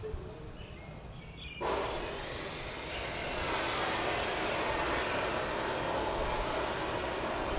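A power tool cutting or grinding stone starts up about one and a half seconds in and runs steadily with a harsh hiss, growing slightly louder a second later.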